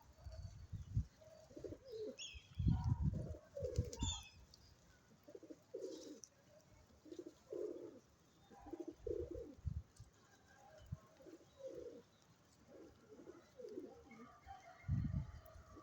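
High-flyer pigeons cooing: a steady string of short, low coos, with a few higher chirps in the first few seconds and occasional low rumbles.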